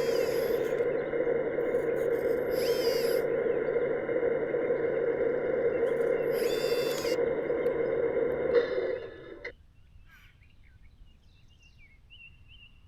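Steady whir of a radio-controlled construction model's electric motor and gears running, stopping about nine seconds in. Birds chirp briefly three times over it.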